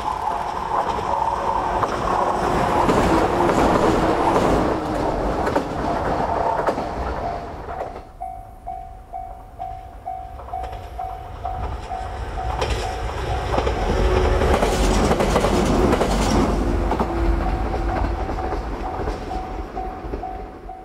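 A train running past, its wheels clattering over the rail joints; the noise swells twice and drops off in between. A steady pulsing beep sounds through the quieter middle stretch.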